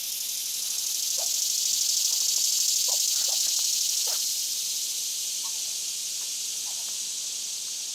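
A steady, high-pitched chorus of insects swells to a peak a couple of seconds in and then slowly fades. A few faint, short bird calls from the poultry come through underneath.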